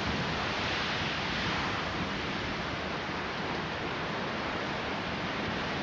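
Heavy thunderstorm rain pouring down, a steady even rush with no thunder clap or other distinct event.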